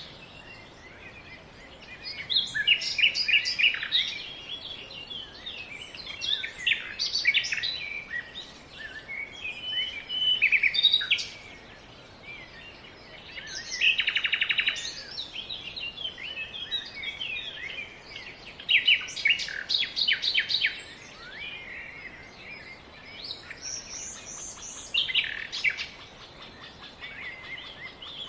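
Songbirds singing, with a new phrase of chirps and rapid trills every few seconds over a faint steady hiss.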